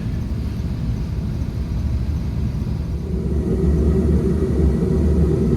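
Carrier rooftop heating unit running: a steady low rumble that grows louder about three seconds in.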